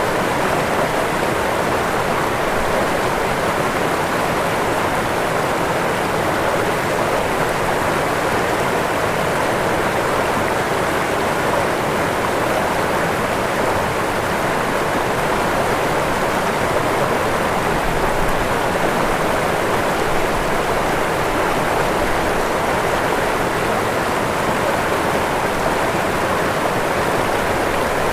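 Waterfall: falling water rushing in a steady, even roar without a break.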